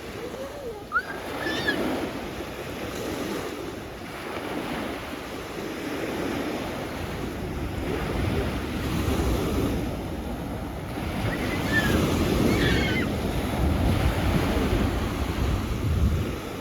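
Sea waves breaking and washing on the shore, swelling louder in the second half, with wind buffeting the microphone. A few brief high calls sound about a second in and again near the end.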